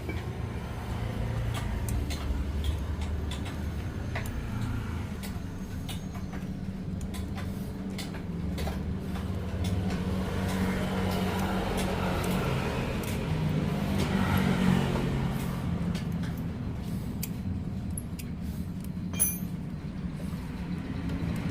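An engine running steadily at low revs, its pitch shifting slightly now and then, with scattered short clicks over it.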